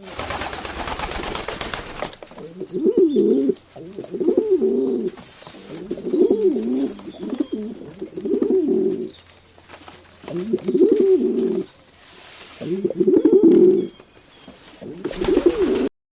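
A bird cooing in a series of about seven low, wavering coos, each about a second long with short gaps between them. The coos follow about two seconds of hiss at the start.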